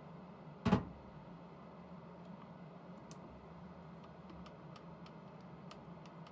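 Metal lathe running with a steady low hum. A single sharp knock comes a little under a second in, followed by faint, scattered light ticks.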